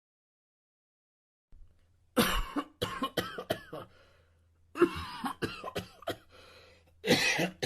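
A person coughing in three fits of repeated coughs, starting about two seconds in, over a faint low hum.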